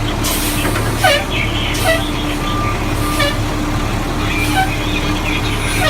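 Refuse truck's diesel engine running steadily, with several sharp clanks and bangs in the first few seconds.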